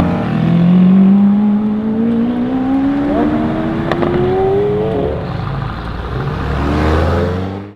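Lamborghini Aventador SV's 6.5-litre V12 accelerating: its note climbs slowly and steadily for about five seconds, drops at an upshift, and starts climbing again before cutting off abruptly.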